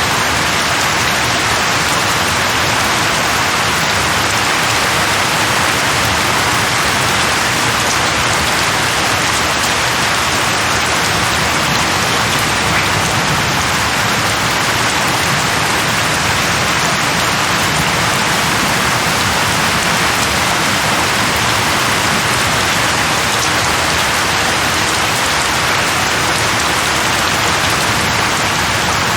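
Steady heavy rain falling on a surface, an even unbroken hiss.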